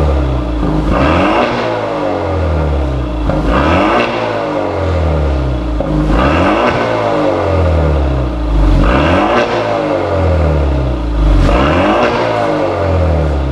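Kia Stinger 2.0T's turbocharged four-cylinder revved through a chamber-type dual valved exhaust: about five rev blips, each rising and falling in pitch.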